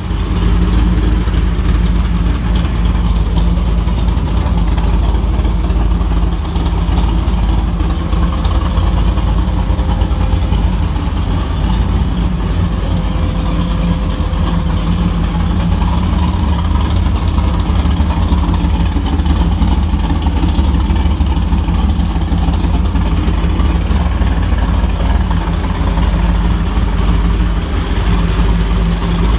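Supercharged 383 stroker small-block Chevy V8 running steadily through open header-mounted straight-through mufflers, a loud, even, deep exhaust note with no clear revving.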